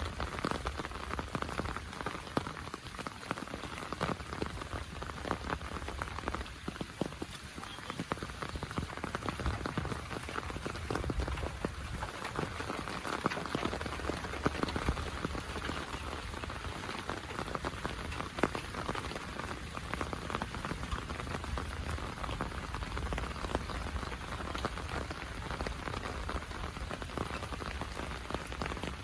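Heavy monsoon rain falling steadily, a dense hiss with many close individual drop strikes.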